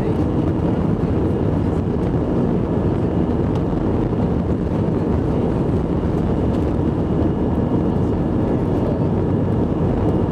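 Cabin noise of an Airbus A321 during its takeoff: the jet engines at takeoff thrust and the airframe's rumble, a loud, steady, deep noise with faint steady tones above it.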